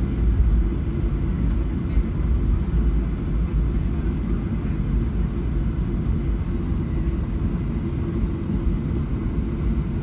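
Cabin noise of a Boeing 737-800 heard from inside the cabin: a steady low rumble from its CFM56 jet engines and the air system, with no change in pitch or level.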